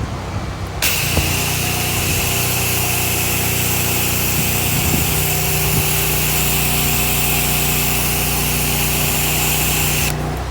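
Pressure washer engine running steadily. About a second in, a loud hiss of high-pressure water spray starts, and it cuts off near the end.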